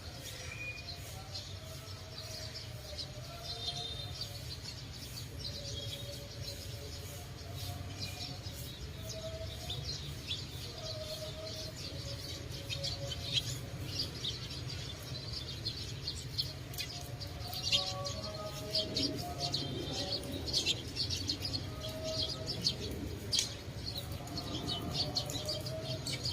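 A flock of small birds chirping rapidly and continuously. The chirps grow denser and louder in the second half, over a steady low rumble.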